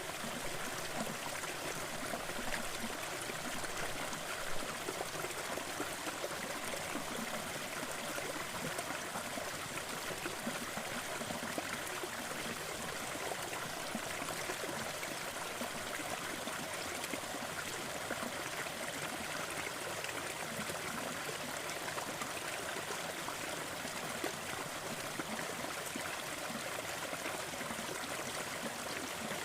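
Crackling wood fire over a steady hiss of background noise, with fine constant crackle and a couple of slightly louder pops.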